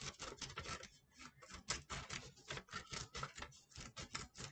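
Scissors making a quick, irregular run of faint small snips while cutting out small round circles.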